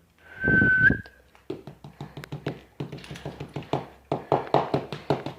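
A person whistles once, a held high note of about half a second with a quick upward flick at the end, calling the dog. Then comes a run of quick, irregular taps and clicks, several a second.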